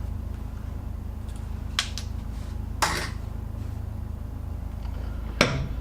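Workshop machine tool running with a steady low hum while brass is being drilled, with three short sharp clicks or taps, the last one near the end.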